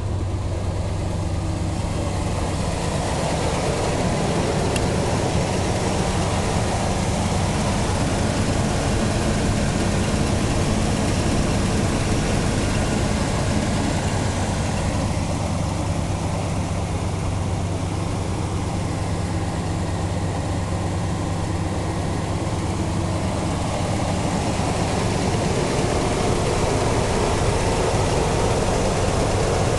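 1981 Chevy truck's 305 small-block V8 idling steadily.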